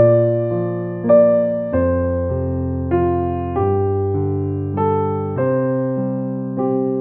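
Background music: a keyboard playing a gentle run of chords, a new one struck about every half second and left to fade.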